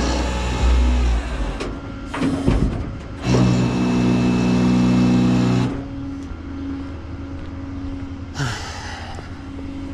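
Vehicle engine running steadily, with a louder stretch of steady-pitched engine hum for a couple of seconds in the middle that starts and stops abruptly.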